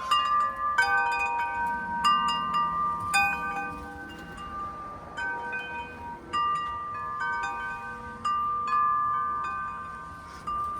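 Metal wind chimes ringing: irregular strikes of several bell-like notes at different pitches that ring on and overlap one another.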